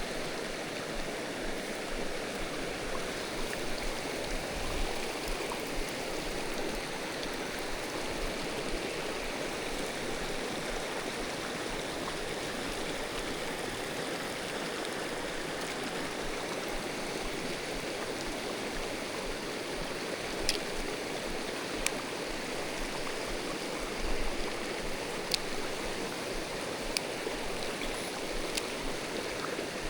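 Mountain stream water rushing steadily over rocks. A few sharp clicks sound in the second half.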